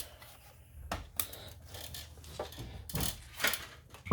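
Scattered metallic clicks and knocks of hand tools and hub parts being handled during reassembly of a vehicle's front wheel hub.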